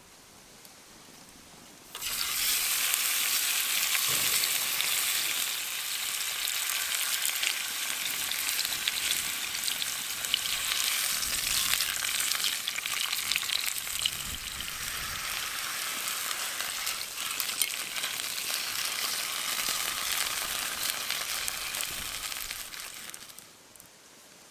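Meat sizzling on a hot grill, starting suddenly about two seconds in, holding steady, and dying away near the end.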